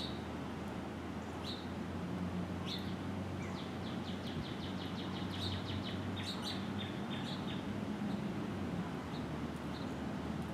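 Songbirds chirping: short single chirps every second or so, and a rapid trill of evenly spaced notes in the middle, over a steady low background rumble.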